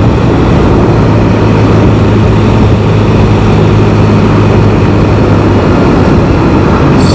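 Can-Am Spyder three-wheeled motorcycle cruising: a steady low engine hum under wind and road noise.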